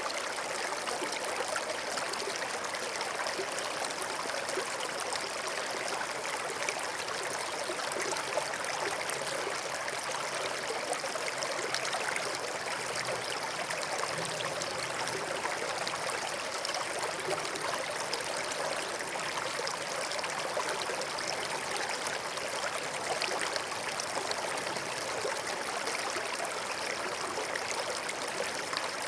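Stream of running water flowing steadily, an even, unbroken rush.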